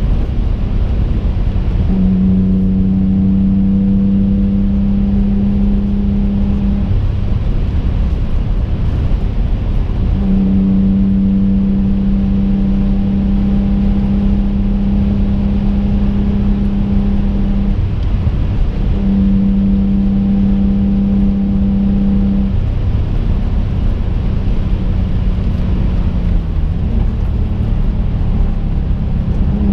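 Twin-turbo 3.5-litre V6 of a 2005 Infiniti G35 coupe heard from inside the cabin under way, over a constant road and tyre rumble. The engine drone holds a steady pitch for several seconds at a time, fades out between stretches, and dips briefly in pitch near the end.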